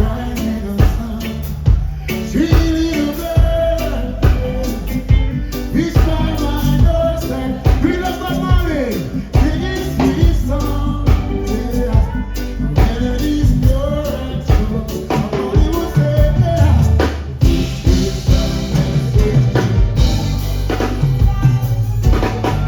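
Live reggae band playing, with bass, drum kit and a singing voice over it.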